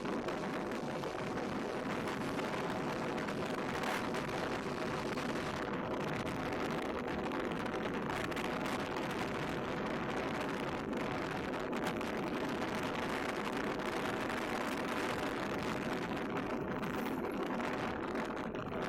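Yamaha MT-15's single-cylinder engine running at a steady speed on the move, with a steady rush of wind noise.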